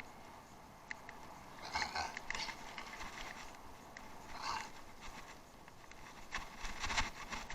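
Bicycle rolling over rough off-road ground, with bursts of rattling and crunching about two seconds in, around four and a half seconds, and louder near the end.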